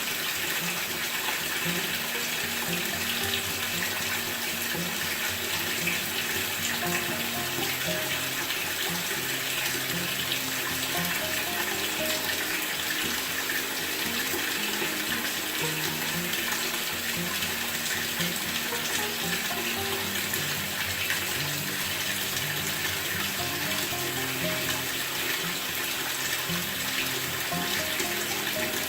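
Water running steadily into a Maytag top-load washer's tub as the machine fills.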